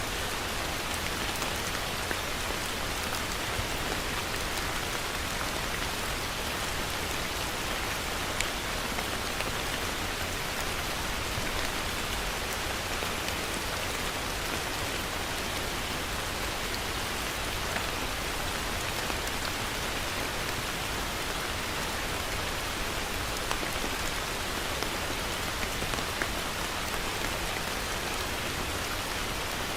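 Heavy rain falling steadily: a dense, even hiss of rain on surfaces, with a few sharper individual drop hits now and then.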